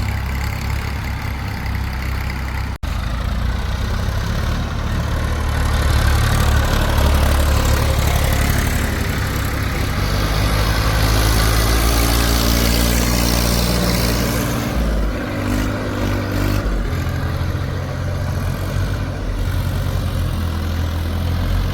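Heavy diesel machinery engine running steadily under load, getting louder about six seconds in, with a harsher, higher noise added for a few seconds in the middle. The sound drops out very briefly near three seconds.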